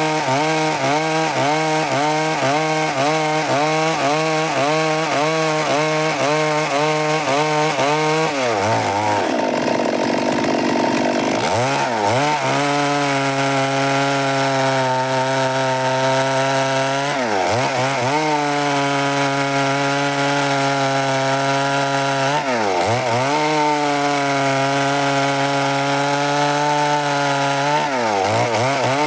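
Stihl MS 382 two-stroke chainsaw running hard while sawing through wood. Its engine pitch wavers up and down about one and a half times a second, drops about eight seconds in, then climbs back to a steady high speed. After that it sags and recovers briefly three times.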